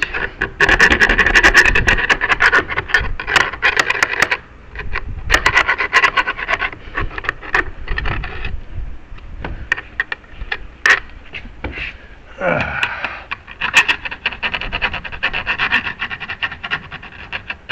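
Hand file rasping back and forth on a door's strike and jamb in repeated runs of strokes with short pauses. The latch opening is being filed out so the latch can run into the strike.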